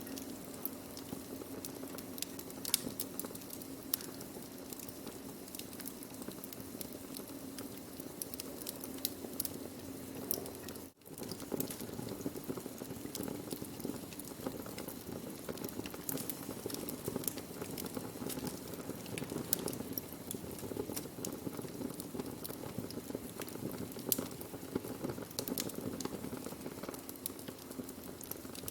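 Wood fire burning: a steady hiss of flames with irregular sharp crackles and pops from the burning wood. The sound drops out for an instant about eleven seconds in, then carries on.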